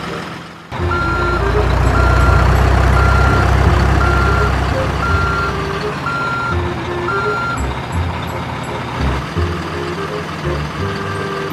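Truck reversing sound: a low engine rumble with a reversing alarm beeping about once a second, seven times, then stopping, over a few light melodic notes.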